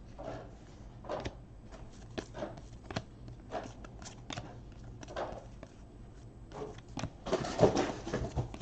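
Baseball trading cards being handled by hand, slid and flicked through a stack: soft rustles and light taps, a little louder near the end.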